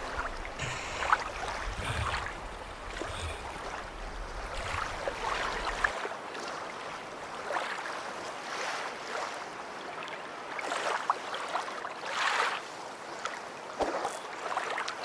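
Kayak paddles dipping and splashing in water, a swish about every second or so over a steady wash. Wind rumbles on the microphone until about six seconds in.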